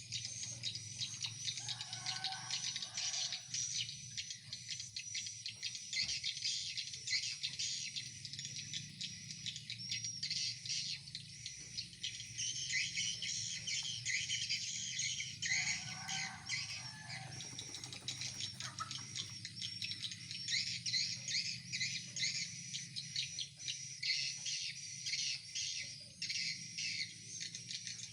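Swiftlets twittering in a dense, continuous chatter of rapid high chirps over a steady low hum, with a lower call breaking in twice.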